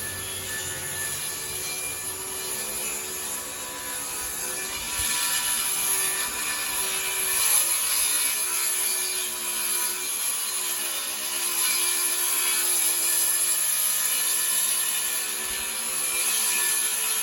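Power saw running and cutting through a wooden panel, getting louder about five seconds in as it bites into the wood.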